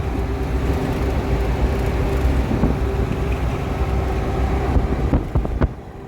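Semi-truck driving at speed, its engine and road noise droning steadily in the cab. A few sharp clicks come near the end, and then the sound drops off abruptly.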